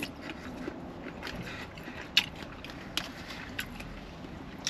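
A person eating a poke bowl: quiet chewing with a few sharp clicks, the clearest about two, three and three and a half seconds in, over the low hum of a parked car's interior.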